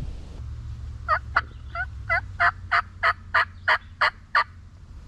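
Turkey call run as a series of about eleven hen yelps, roughly three a second, each note breaking from high to low pitch; a hunter's calling to draw gobblers.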